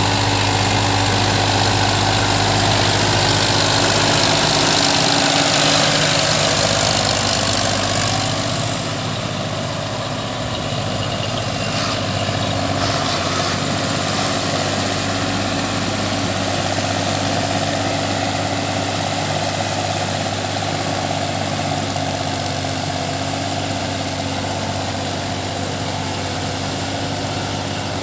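Sonalika RX 42 tractor's diesel engine running steadily, easing off slightly about nine seconds in.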